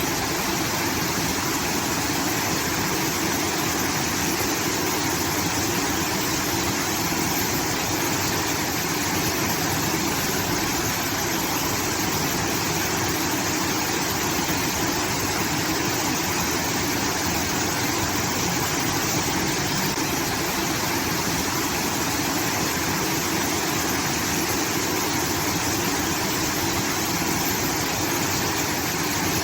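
Water from a rice field irrigation outlet pouring and splashing in a steady rush, like a small waterfall.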